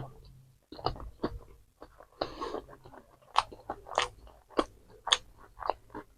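Close-miked chewing and biting of fast food, a string of short, crisp crunches and wet mouth clicks at an irregular pace.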